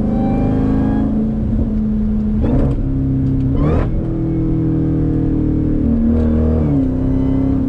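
Jeep Grand Cherokee Trackhawk's supercharged 6.2-litre Hemi V8 pulling through gear changes, its note jumping to a new pitch at each shift about two and a half and three and a half seconds in, then dipping and rising again near the end. These are downshifts.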